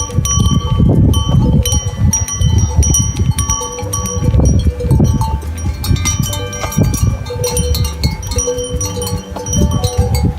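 Many metal bells clanking and jingling irregularly, their ringing overlapping, over a loud low rumbling noise.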